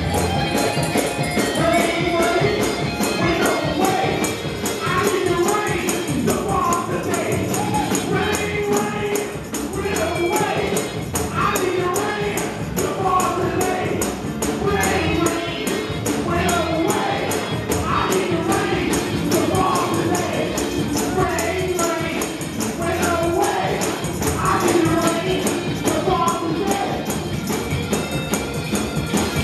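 Up-tempo gospel praise-break music: voices singing over a fast, steady tambourine shake.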